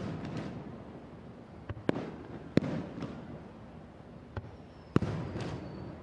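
Aerial fireworks shells bursting, about six sharp bangs at uneven intervals, each followed by a rumbling, crackling tail. A faint thin whistle sounds near the end.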